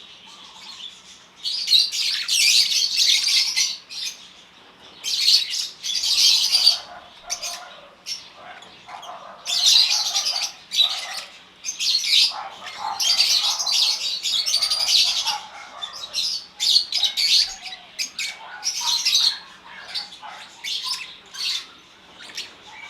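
A flock of African lovebirds chattering and squawking in shrill, high-pitched bouts of one to two seconds, with short lulls between.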